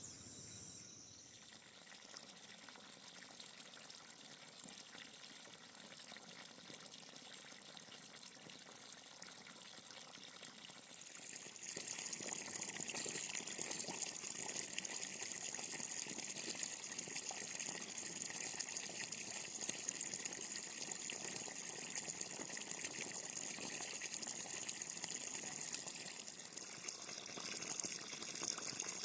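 Steady rushing water noise with fine patters, which steps up clearly louder about twelve seconds in and stays level after that.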